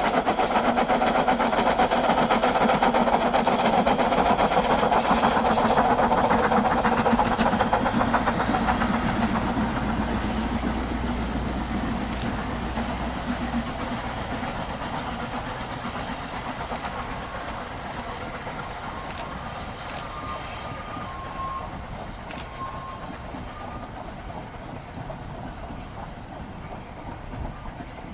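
Steam-hauled train passing, wheels clattering over the rails, the sound loud at first and then dying away steadily as the train recedes.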